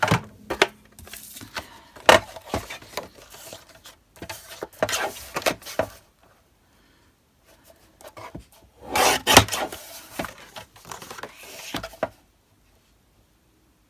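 Sheets of card stock being handled and slid against each other and the desk: irregular scraping and rustling with light knocks, in bursts that stop about twelve seconds in.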